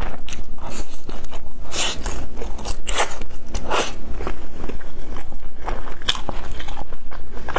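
Close-miked biting and chewing of pan-fried Chinese chive pockets, the fried wrapper crunching and crackling, with several louder bites about two, three and four seconds in.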